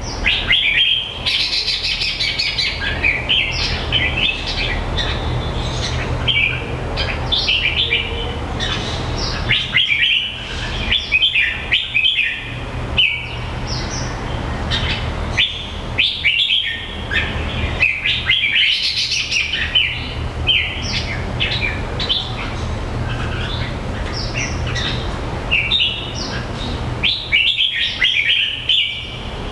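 A bird chirping and calling in quick, varied series of short notes, over a steady low hum.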